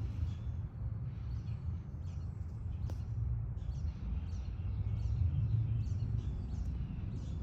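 Small birds chirping in short, quickly repeated high calls over a steady low rumble.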